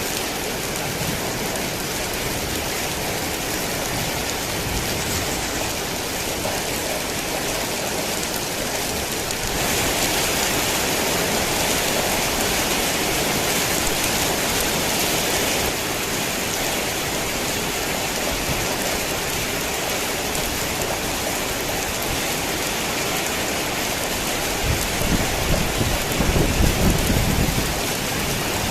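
Heavy rain pouring steadily. It grows louder for several seconds about a third of the way in. Near the end comes a low rumble of thunder.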